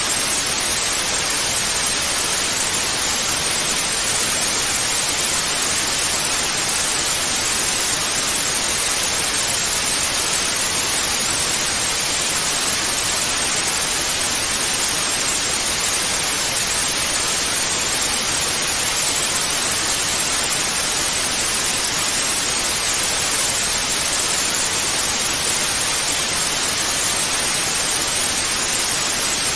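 Television static (white noise) hissing steadily, an even rushing hiss that does not change, brightest in the upper range.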